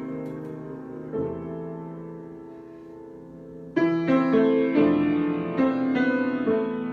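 Solo piano improvisation: a held chord slowly dies away, a soft chord is played about a second in, then a louder chord is struck a little under four seconds in and is followed by a string of further notes and chords.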